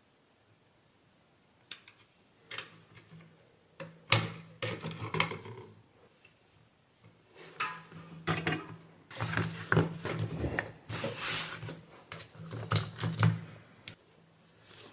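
Irregular clicks, knocks and rattles from an electronic circuit board, its wiring connectors and tools being handled on a workbench. A low hum comes and goes with the louder stretches.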